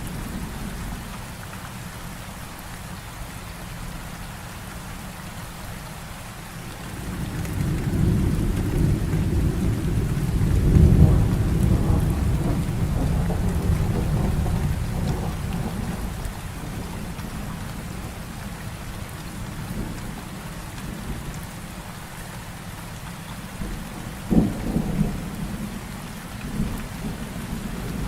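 Heavy rain falling steadily throughout, with a long roll of thunder that builds about a quarter of the way in and dies away over roughly ten seconds. A shorter, sharper thunderclap comes near the end.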